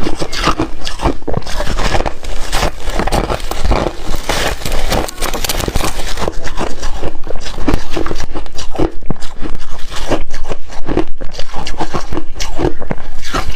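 Hard refrozen ice being bitten and chewed close to the microphone: many loud crunches and cracks in quick succession, a little softer around the middle.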